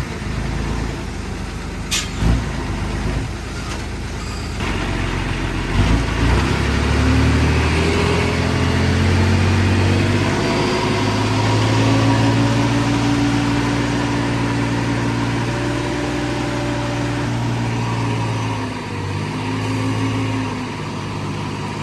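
A heavy vehicle's engine running, picking up about six seconds in and then holding a steady note, with a short dip near the end. Two sharp knocks come in the first two seconds.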